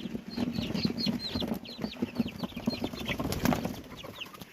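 Chicks peeping in rapid, high, falling chirps, many overlapping, while adult hens cluck low beneath them. A few short knocks and scuffles come from the birds moving about.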